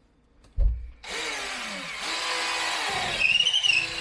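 Power drill running in reverse, backing a long drill bit out of the drilled hole with insulation winding up on it. It starts about a second in after a thump, and a brief high squeal rises and falls near the end.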